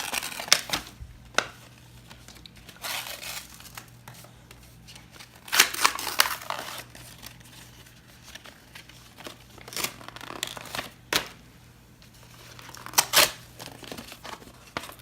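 A paper greeting-card envelope being torn and crinkled open, in short irregular rips and rustles with pauses between.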